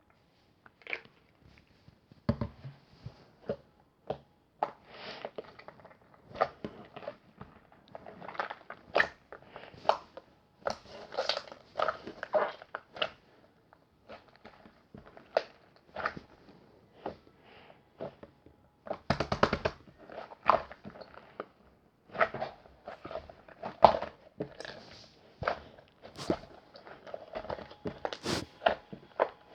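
Close-up eating sounds: irregular crunches, bites and mouth clicks in quick clusters, with short pauses between.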